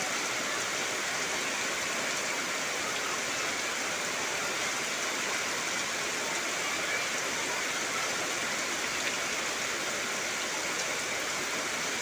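Heavy rain falling steadily on trees, an even, unbroken hiss.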